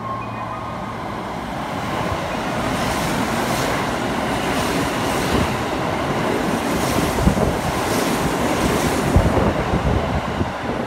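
Kintetsu 9020 series electric train running past close along the platform: a rumble of wheels on rail that grows louder over the first couple of seconds, with several sharp clacks in the second half.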